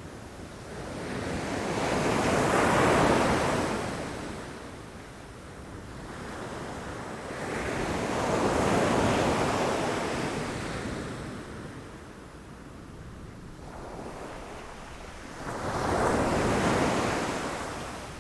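Ocean waves breaking against rocks: three swells of surf that rise and fall, about six seconds apart.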